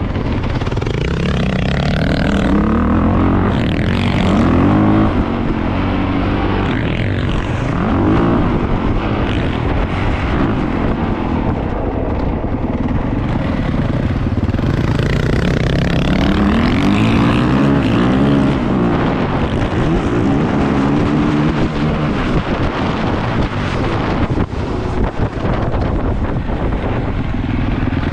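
450cc four-stroke dirt bike engine revving, its pitch rising and falling again and again, with the throttle worked repeatedly.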